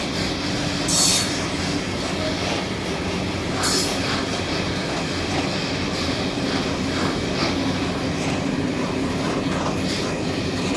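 Train running past on the rails with a steady rumble of wheels on track. Short high-pitched wheel squeals come about a second in and again a few seconds later.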